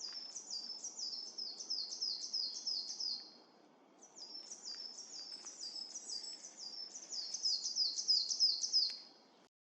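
A small songbird calling: a rapid series of high downslurred notes, about three or four a second, in two long runs with a short pause a little after three seconds in.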